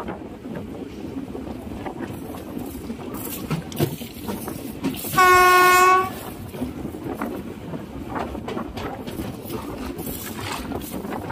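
A train horn sounds one steady blast of about a second, a little past the middle, over the steady rumble and clatter of a train running on the rails.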